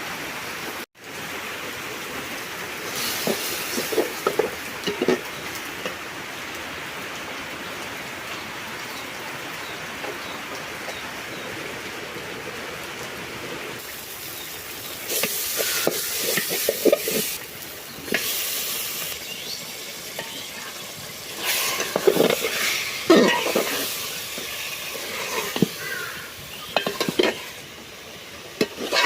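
Food sizzling in a frying pan, with a steady hiss. A utensil stirs and scrapes against the pan in several bouts.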